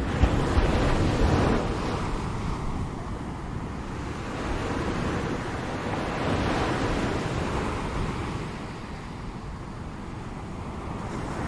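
Ocean surf: waves washing in and breaking in slow swells, the loudest surge about a second in, another in the middle, and the next building near the end.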